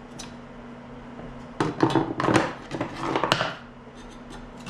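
A burst of metal clinks, scrapes and rattles from hand tools worked against steel, lasting about two seconds from about a second and a half in, over a steady low hum.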